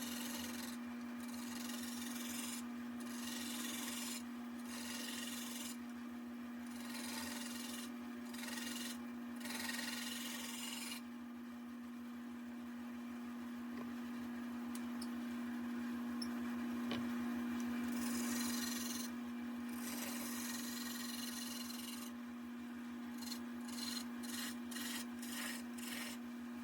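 Wood lathe spinning a walnut table-leg blank with a steady motor hum, while a hand-held turning tool cuts it: the hiss of the tool on the wood comes and goes in passes, drops out for several seconds midway, and comes back as short quick strokes near the end.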